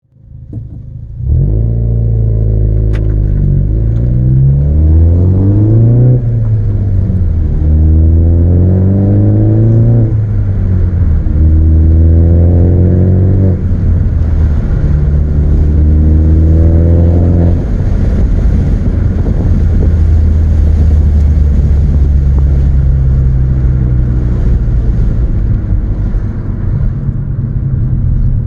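2017 Ford Focus ST's 2.0-litre turbocharged four-cylinder with a straight-pipe exhaust and an open K&N air filter, its airbox removed. It comes in about a second in and is revved five or so times, each time rising and falling in pitch. It then settles to a steady idle for the last ten seconds.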